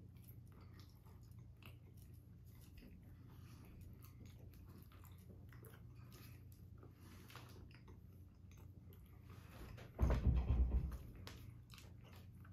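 Close-up chewing of a thick, dense chocolate bar, with small wet mouth clicks. About ten seconds in comes a loud, low bump lasting about a second.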